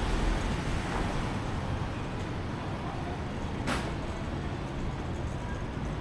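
City street traffic: a steady rumble of passing cars and buses. A single sharp click about two-thirds of the way through.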